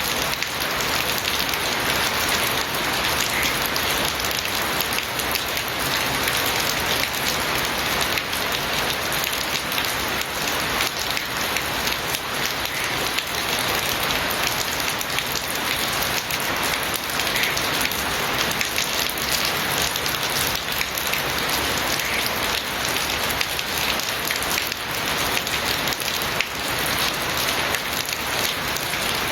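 Steady heavy rain falling and pattering on surfaces, a dense even hiss of countless drops.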